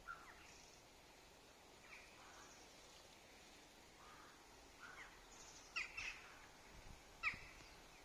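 Wild birds chirping and calling now and then over a faint, quiet background, with a few short, sharp chirps louder than the rest about six and seven seconds in.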